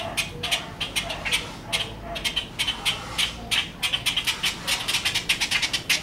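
A flock of birds calling harshly and without let-up, several overlapping calls a second. This is the racket of birds gathered around a fledgling that cannot fly.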